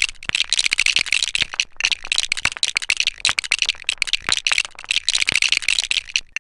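Rapid, continuous rattling: a dense run of small clicks and clatters with a brief break near the end.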